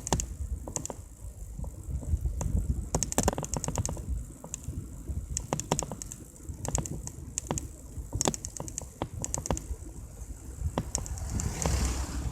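Mountain bike being ridden on a road: irregular clicking and rattling from the bike over a low rumble, with a brief rushing hiss near the end.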